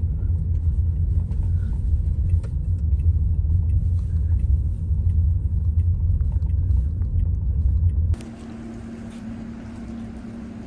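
A steady low rumble that cuts off abruptly about eight seconds in, giving way to a quieter, steady low hum.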